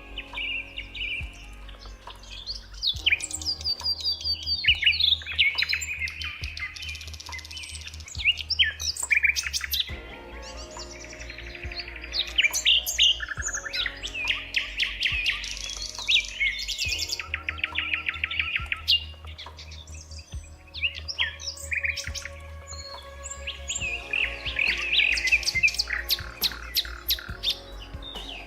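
Several songbirds chirping and singing at once, overlapping trills, whistles and rapid note series, over a faint steady low hum.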